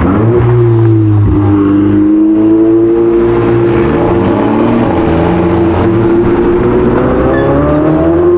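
A performance car's engine running loud at low revs. Its pitch dips just after the start, holds steady, then climbs near the end as the revs rise.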